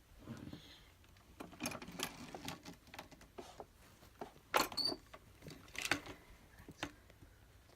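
Irregular clicks, knocks and light rattles, with no motor running; the sharpest knocks come about four and a half and six seconds in.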